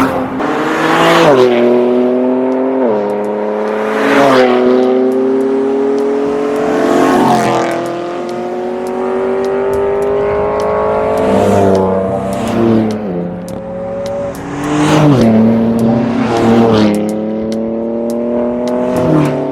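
Straight-piped BMW M4 F82's twin-turbo inline-six exhaust accelerating. It climbs in pitch through the gears and drops sharply at each upshift, several times over, with one long, slower climb through the middle.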